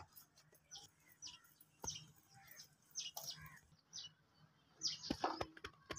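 Birds chirping faintly in short, scattered calls, with a couple of sharp knocks, one at the start and one about two seconds in.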